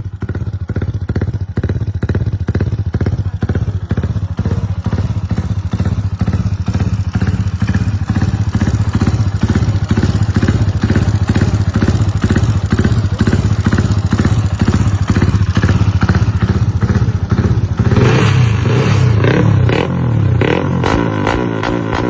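Honda Wave 125i's single-cylinder four-stroke engine running through its exhaust: a steady, evenly pulsing idle. About eighteen seconds in, the sound gets fuller and slightly louder as the throttle is opened.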